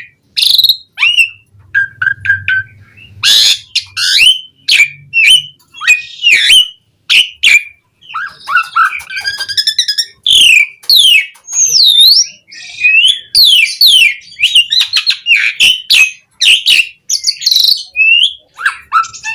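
Asian pied starling (jalak suren) in full, loud song: a fast, unbroken run of varied whistles, notes gliding up and down, clicks and harsh chattering phrases, with short pauses between bursts.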